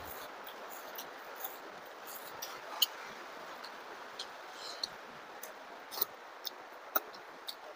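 Close-miked eating sounds: irregular sharp mouth clicks and smacks while chewing, over a steady background hiss.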